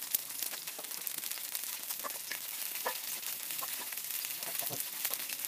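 Chicken wings sizzling in hot fat on a steel griddle plate, a steady crackle with many small pops. Near the end a wooden spatula scrapes under the wings to lift them off the plate.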